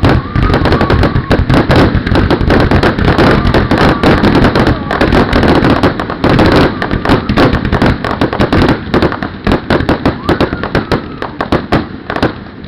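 A fireworks display setting off a dense, rapid barrage of bangs and crackles, many per second without a break, thinning a little near the end.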